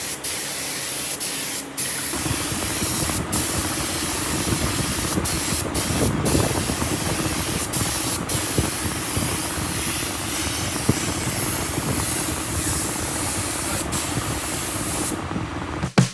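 Compressed-air spray gun hissing steadily as it sprays finish, with a lower running sound joining about two seconds in and a few very short breaks.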